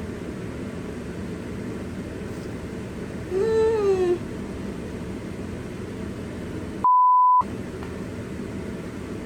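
A steady low whir of background noise. Near the middle there is a short pitched sound that rises and then falls. About seven seconds in comes a half-second pure electronic beep, the loudest sound, and all other sound drops out while it plays, like an edited-in bleep.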